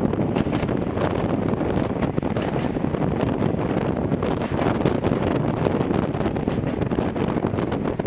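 Running noise inside a Gakunan Railway 7000 series electric railcar under way: a steady rumble of wheels on the rails, with many small clicks and rattles.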